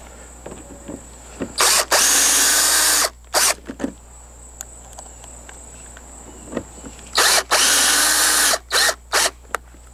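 Cordless drill with a number 2 Phillips bit driving two number 8 pan-head screws. Each screw gets one long run of about a second and a half, then a few short bursts to seat it.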